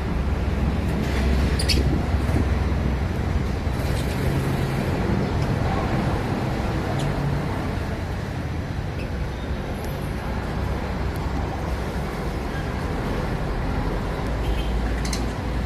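A steady low rumble dominates, with a few short, sharp chirps from lovebirds in an aviary standing out above it.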